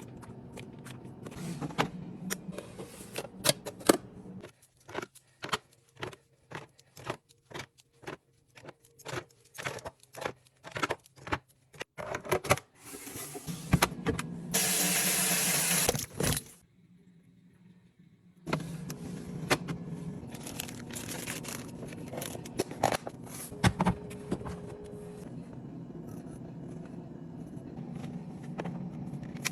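Refrigerator being cleaned out: a run of short clinks, taps and knocks as containers and shelves are handled and set down. About halfway through comes a steady hiss lasting about two seconds. After a brief silence the handling knocks resume over a low steady hum.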